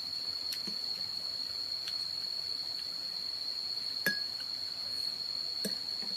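A cricket trilling steadily at a high pitch, with a few light clicks and knocks scattered through it, the sharpest about four seconds in.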